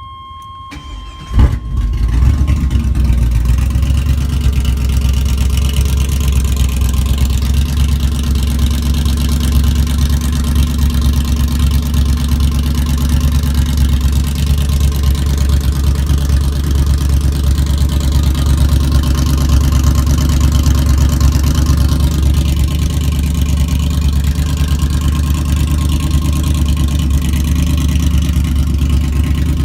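A 5.3-litre LS V8 cranks and fires about a second and a half in with a sharp, loud catch, then runs on with a steady, deep idle through a loud exhaust. Before it starts, a steady electronic tone sounds and stops.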